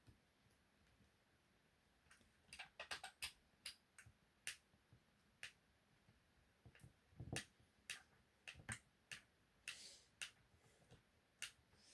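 Faint, scattered light clicks and taps of small hand tools and plastic parts being handled while screws are worked out of an RC car's front bumper, coming irregularly in small clusters after about two seconds.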